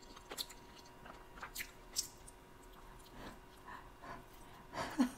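A person chewing and biting into a slice of Chicago-style deep-dish pizza: quiet scattered wet mouth smacks, with a louder cluster near the end.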